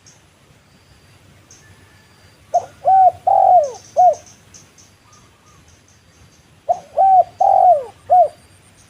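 Spotted dove cooing: two phrases of four arching coos about four seconds apart, with faint high chirps of small birds in the background.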